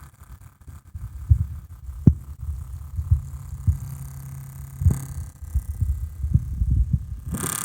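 MSI GS30 laptop cooling fan (Aavid PAAD07010SH) rattling: an irregular low knocking over a steady hum, the sign of a faulty fan. Near the end a rushing airflow sound comes in sharply.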